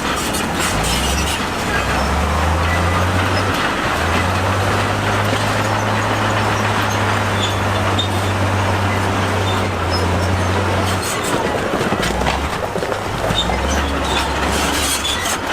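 Crawler bulldozer working in stone: a diesel engine under load with steel tracks clanking and squealing and rock grinding. The engine note holds steady through the middle and shifts near the start and end.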